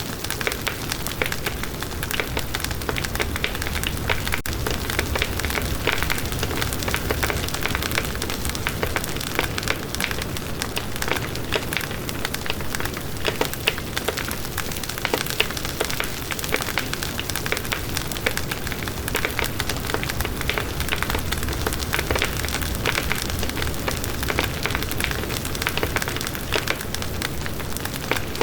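Campfire burning: wood crackling with a dense, irregular run of small pops and snaps over a steady low rumble from the flames.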